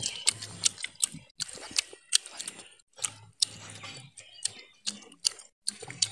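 A child biting and chewing fried chicken close to the microphone: irregular crunches and wet mouth smacks, several a second.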